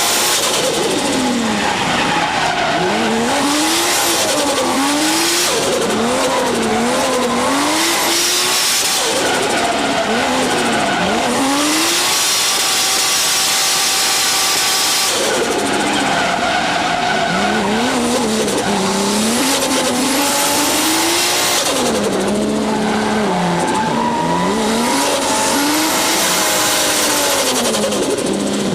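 Toyota 1JZ turbocharged straight-six engine, fitted with a TRUST T67-25G turbo, revving up and down again and again as the car drifts, with tyres squealing. Its pitch holds steadier for a few seconds before the middle, then keeps rising and falling.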